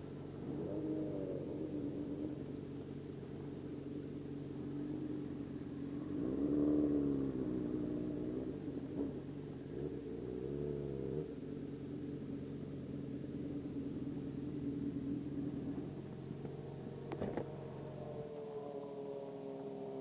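Motorcycle engine running at low speed, its pitch rising and falling three times as the throttle is opened and eased off while the bike rolls slowly. The deep engine note drops away near the end, with a single sharp click just before.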